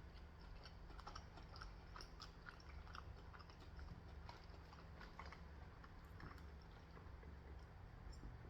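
Faint chewing: a person eating close to the microphone, with soft scattered mouth clicks over a low steady hum.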